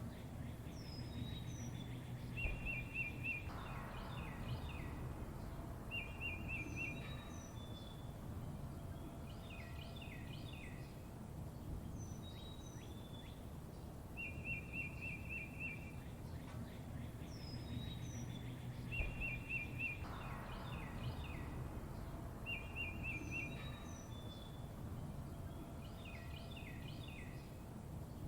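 Songbirds chirping and trilling: short buzzy trills, quick down-sweeping whistles and clusters of chirps, over a steady low rumble. The same run of calls recurs about every 16 seconds.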